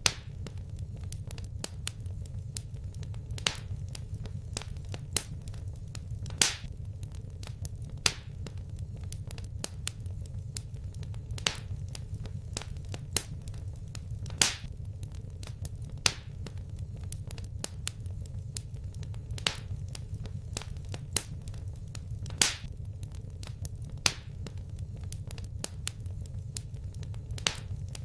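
Wood fire crackling: sharp, irregular pops and snaps, a few louder ones every second or two, over a steady low rumble of the flames.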